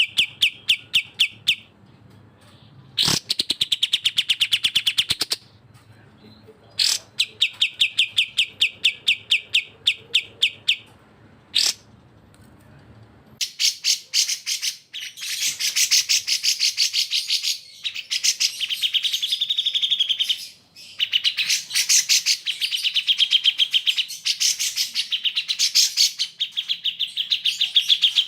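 Recorded bulbul song, cucak jenggot and kapas tembak, for bird training: fast runs of sharp, evenly repeated chirps. For the first half it comes in phrases of two to four seconds with short pauses; about halfway through it turns into nearly continuous, denser chattering, and a faint low hum underneath stops.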